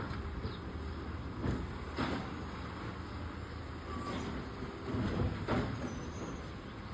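Garbage truck engine running with a steady low rumble. Several short knocks come about a second and a half in, and again around five seconds.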